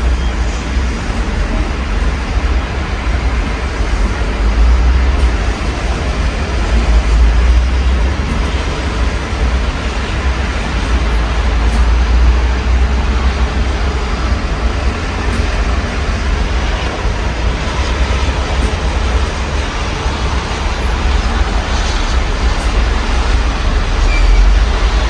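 Steady rain falling, heard through an open window as an even hiss with faint scattered drip ticks, over a deep low rumble that swells and fades a few times.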